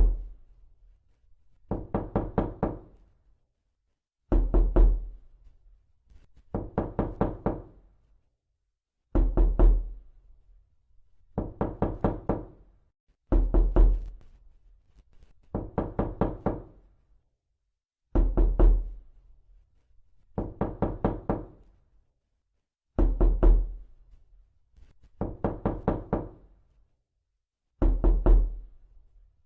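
Knocking in short bursts of several quick raps, repeated about every two seconds. Heavier bursts with a deep thud alternate with lighter ones.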